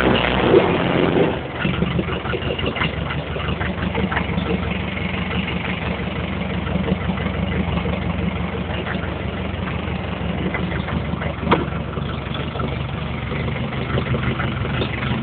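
Heavy equipment diesel engine idling after a cold start; it runs a little harder for about the first second, then settles into a steady idle.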